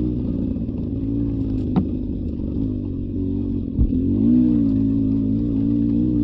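Beta 300 RR two-stroke dirt bike engine running at low, steady revs, its pitch wavering with the throttle. A sharp click comes about two seconds in, and a knock just before the engine dips and picks back up a little past the middle.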